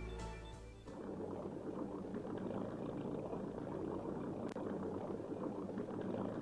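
Title music ends about a second in, followed by a steady gurgling rush of running river water.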